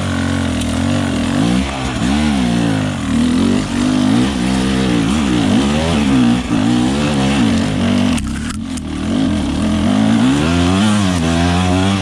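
Dirt bike engine being ridden hard, revving up and falling back again and again as the throttle is worked, with a short dip about two-thirds of the way through.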